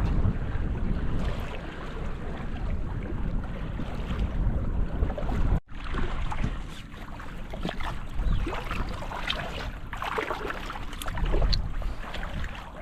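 Wind buffeting the microphone over moving water, with scattered short splashes and knocks in the second half. The sound cuts out for an instant about halfway through.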